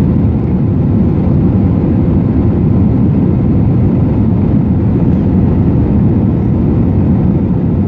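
Steady, loud cabin noise of an Airbus A320-214 in flight: a deep, even drone of its CFM56 engines and airflow over the fuselage, unchanging.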